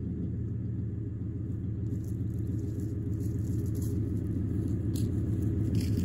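1999 Ford F-150's 4.6-litre V8 idling, a steady low exhaust rumble through true-dual Flowmaster two-chamber mufflers with no catalytic converters.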